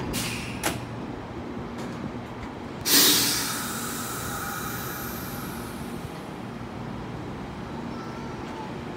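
Hankyu 3000-series electric train at a platform: a short hiss and a knock just after the start, then a loud hiss of air about three seconds in as the air brakes are released, fading over a few seconds. Near the end faint motor and gear tones rise as the train starts to move off.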